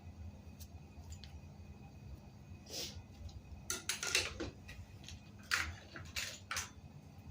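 Several short scrapes and clinks of handled metal parts or tools, bunched in the middle seconds, over a steady low hum.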